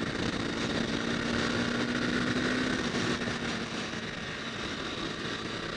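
Honda CBR250R's single-cylinder engine running steadily at speed under broad wind and road noise; the engine note fades a little about three seconds in.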